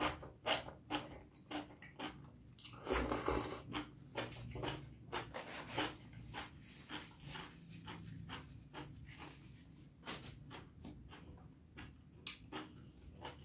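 Close-up eating sounds of a person chewing spicy beef curry with rice: wet mouth clicks and lip smacks in an uneven run, with a brief louder noisy burst about three seconds in.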